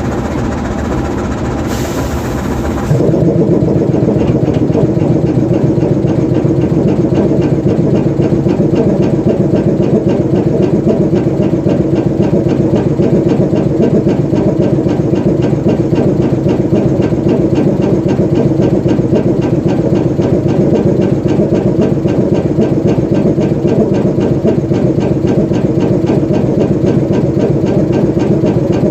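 GE U20C diesel-electric locomotive's 12-cylinder engine running while the locomotive stands parked. After a brief hiss about two seconds in, the sound steps up about three seconds in, louder and with a dense, rapid, even pulse, and then runs steadily.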